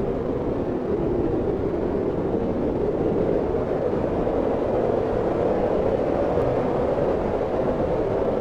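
Wind blowing steadily: a dense rushing noise with a low, hollow band in it that wavers slightly.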